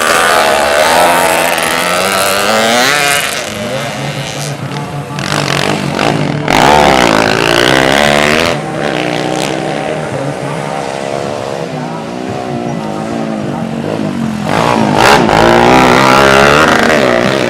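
Several racing motorcycle engines revving hard, overlapping, their pitch climbing and dropping again and again through gear changes. Loudest as bikes pass close about a second in, around seven seconds and again near the end.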